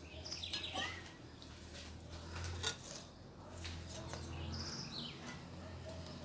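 Birds chirping with a few short, high calls near the start and again later on, over a low steady hum and occasional sharp clicks.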